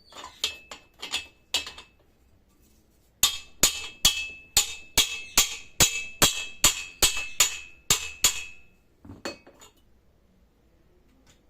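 Hammer blows on a steel drift, driving the corroded, poorly lubricated swingarm pivot axle out of a Yamaha Crosser 150. Each blow is a sharp metal-on-metal strike with a ringing note. A few strikes come first, then a steady run of about two and a half strikes a second, then two more near the end.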